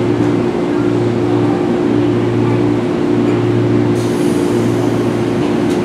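A JR 211-series electric train standing at the platform with its doors open, its on-board equipment giving a steady hum with a low tone that pulses, cutting out briefly about once a second. Two short clicks come about four seconds in and near the end.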